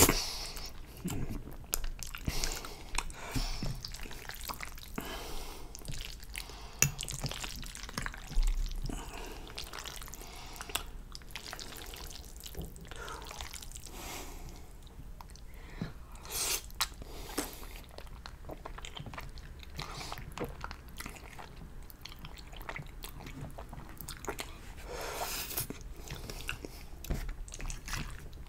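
Close-miked chewing and slurping of creamy fettuccine noodles: a steady run of wet mouth smacks and clicks, busiest in the first several seconds.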